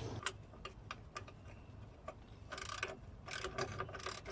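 Faint metallic clicks and short rattling scrapes of hand tools working on exhaust clamp bolts, turning in short runs. The rattling bunches into quick runs in the second half.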